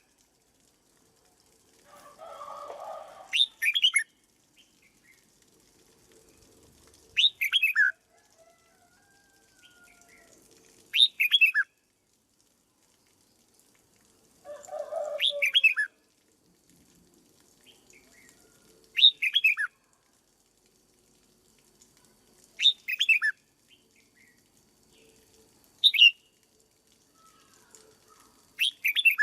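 Red-whiskered bulbul singing short loud phrases of a few quick falling notes, repeated about every four seconds. A duller rustling sound comes twice, each time just before a phrase.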